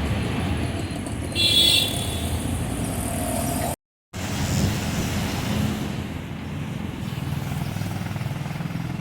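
City road traffic: vehicle engines running with a steady low rumble, and a horn sounding briefly about a second and a half in. The sound cuts out completely for a moment just before the middle.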